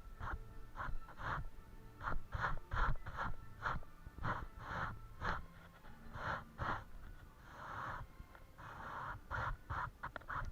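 A paintbrush working paint onto a canvas in short, rhythmic strokes, about two to three a second, turning to a few longer scrubbing strokes in the later part.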